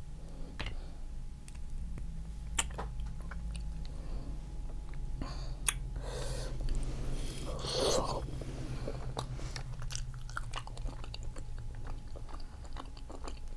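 Close-miked chewing and biting of seafood-boil food, with many small wet mouth clicks and smacks and a louder stretch of chewing about six to eight seconds in, over a faint low hum.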